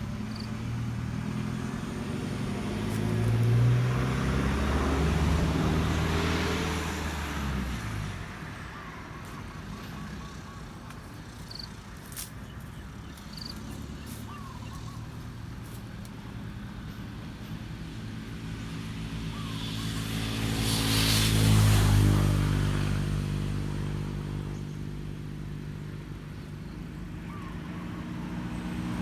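Two motor vehicles passing by on a road, one after another. Each engine swells and fades with a sliding pitch: the first about three to seven seconds in, the second and louder one about twenty to twenty-three seconds in.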